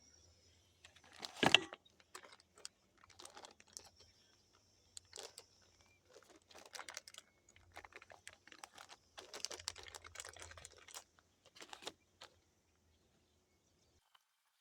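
Faint, irregular light clicks and taps, with one louder knock about one and a half seconds in, over a faint low hum; it stops abruptly near the end.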